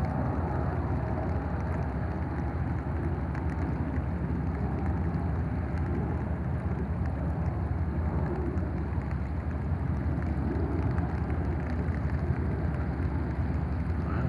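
Steady rain falling, a continuous hiss with fine scattered drop ticks, over a low steady rumble.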